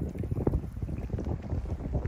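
Wind buffeting a handheld phone's microphone in a gusty low rumble, over the water noise of a kayak on the ocean.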